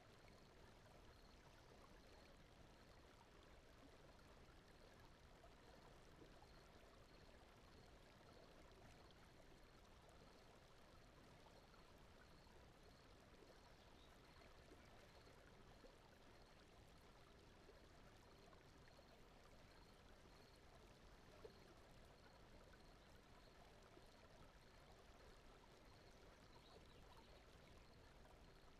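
Very faint, steady brown noise with a soft, stream-like flowing-water ambience, and a faint high tone repeating evenly throughout.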